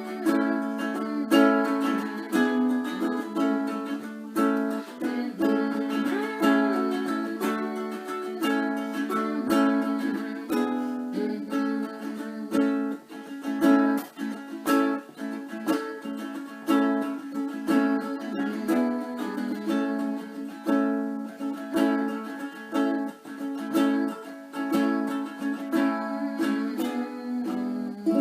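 Ukulele strummed in a steady rhythm, with a voice humming a simple tune over it.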